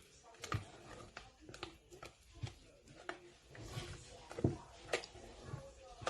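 A utensil knocking and scraping in a mixing bowl while whipped cream is folded into a custard mixture, with irregular light taps and a louder knock a little past halfway.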